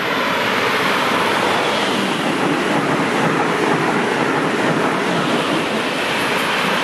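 Passenger train passing close by at speed: a steady, loud rush of wheels on rail and moving air.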